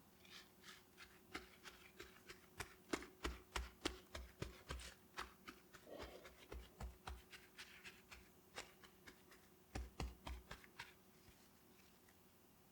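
Hands at work preparing food in a kitchen: an irregular run of light clicks, taps and soft knocks.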